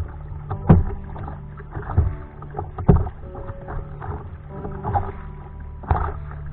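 Kayak paddling at sea: paddle strokes splashing and knocking against the hull about once a second, over sloshing water and a steady low hum.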